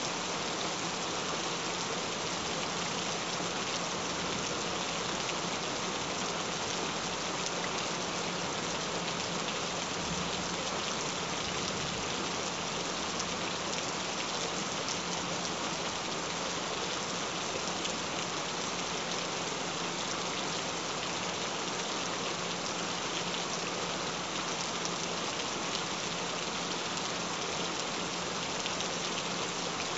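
Steady rain falling, an even, unbroken hiss, with a faint steady low tone underneath.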